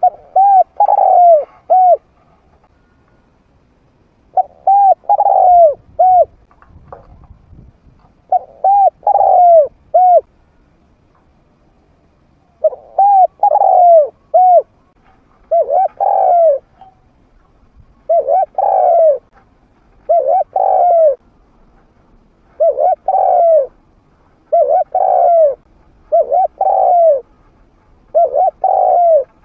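Male spotted dove cooing in a medium-pitched voice: about eleven phrases of three or four arched coo notes, repeated every couple of seconds. This is the call used to lure wild spotted doves in.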